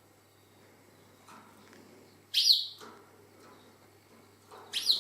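A female canary giving single call notes: a sharp, falling chirp, heard twice, about two and a half seconds apart. A lone call note with no song, which the owner takes as the sign that the bird is a hen.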